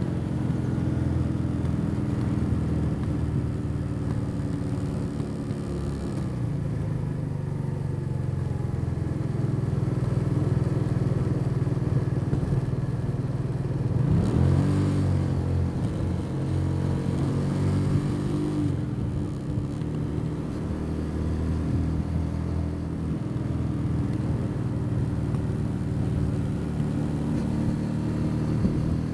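Custom motorcycle's engine running on the road. The engine note drops about six seconds in, rises in a quick rev about halfway through, and drops again a few seconds later.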